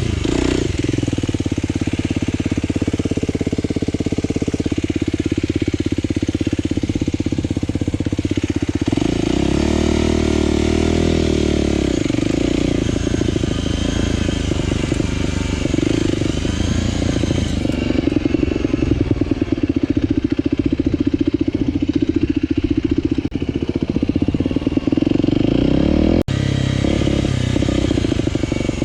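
Aprilia RX125 4T's single-cylinder four-stroke engine with a Snell slip-on silencer and dB killer, running under way, its pitch rising and falling with the throttle. The sound changes abruptly twice, at about 18 seconds and about 26 seconds in.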